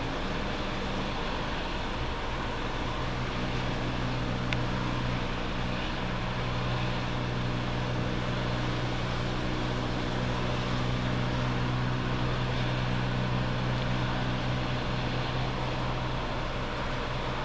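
Steady low engine hum over a constant hiss, without any clear rise or fall in pitch.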